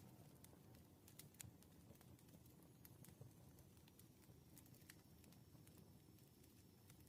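Faint wood fire crackling: irregular sharp snaps and pops over a low, steady rumble of burning logs.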